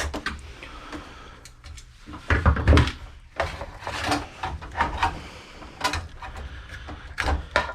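Parts of an old desktop computer's metal case being handled and pulled apart: a string of knocks and clatters, loudest a little over two seconds in.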